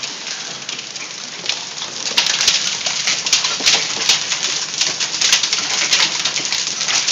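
Hailstorm: a dense clatter of hailstones striking hard surfaces, many sharp impacts at once, growing heavier about two seconds in.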